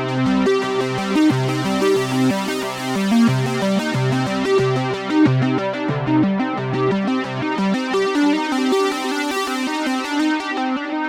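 Behringer Poly D analog synthesizer playing a busy pattern of short, quickly changing notes over a low bass part, with no pauses.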